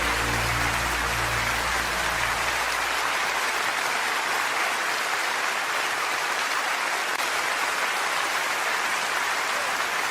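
Live audience applauding as the final held chord of a gospel quartet's song fades out in the first few seconds.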